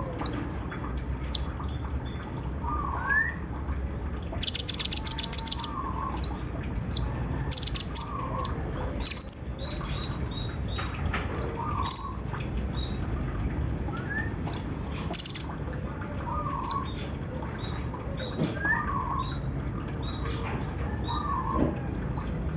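Konin (kolibri ninja sunbird) song: short, sharp, high chirps, with a fast buzzing rattle like a sewing machine lasting about a second and a half, about four seconds in. Softer, lower whistled notes recur every second or two.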